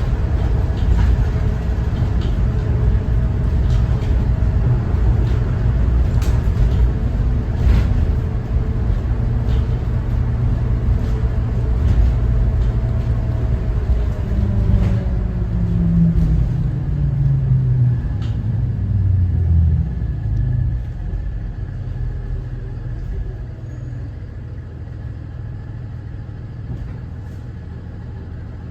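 2014 Thomas Saf-T-Liner C2 school bus with its Cummins ISB 6.7 diesel engine, heard from on board with heavy road rumble and rattles. About halfway through the engine note falls as the bus slows, and in the last several seconds it settles to a quieter, steady running sound.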